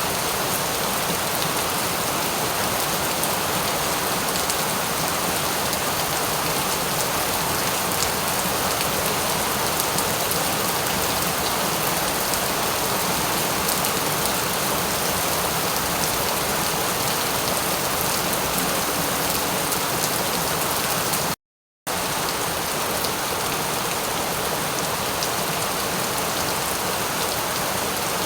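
Steady rain falling: an even hiss with many fine drop ticks through it. The sound cuts out to silence for about half a second roughly three-quarters of the way through.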